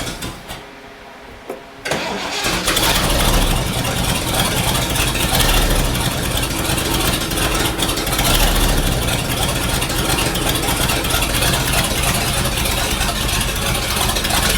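Rat rod's engine dies away, then restarts about two seconds in, catching at once and settling into a steady run: a warm restart check during its first ignition-timing run.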